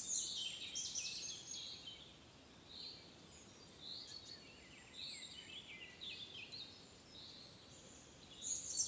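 Songbirds singing: quick high chirps and trills overlapping, busiest at the start and picking up again near the end.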